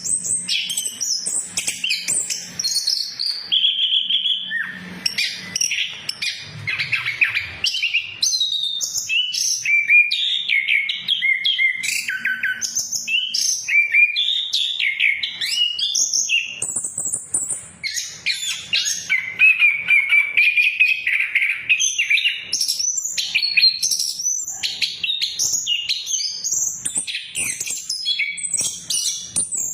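Chestnut-capped thrush (anis kembang) singing without pause: a fast, varied song of sliding whistles mixed with rapid chattering notes.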